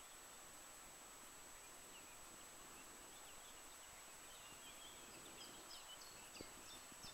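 Near silence: faint outdoor hiss with distant birdsong. A series of short, high, falling chirps repeats through the second half.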